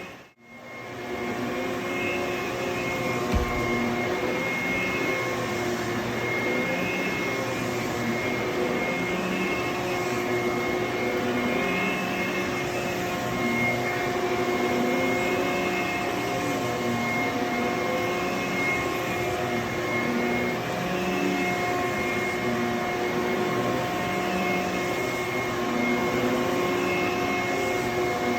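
HYLA water-filter vacuum cleaner running steadily as it is pushed back and forth over carpet, its tone rising and falling with each stroke about every two seconds. The sound comes back in after a brief gap at the start, and there is a single low thump about three seconds in.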